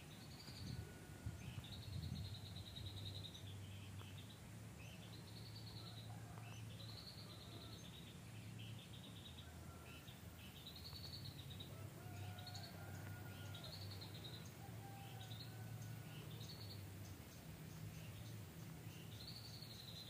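Wild songbird chattering in rapid, high-pitched phrases repeated over and over, each phrase rising and falling. Fainter calls of other birds and a low steady hum sit underneath.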